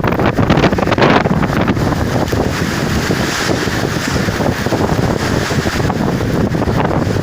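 Gale-force wind buffeting the microphone in a heavy, continuous roar with gusty rumbling and flutter.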